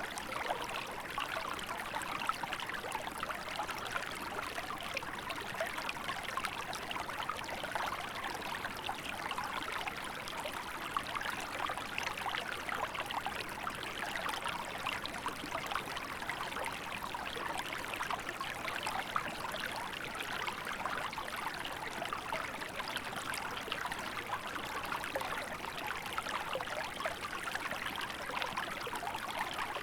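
Small river flowing steadily, a constant babbling and trickling of water over stones.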